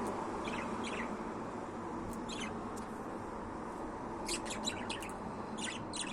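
Budgerigar chirping: a few short, high chirps spaced out at first, then a quick run of chirps about four seconds in and a couple more near the end, over a steady background hiss.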